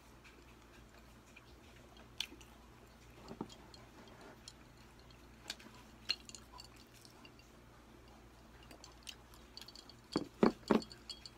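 Faint chewing and wet mouth clicks from someone eating, scattered and soft, with three or four louder short sounds in quick succession about ten seconds in.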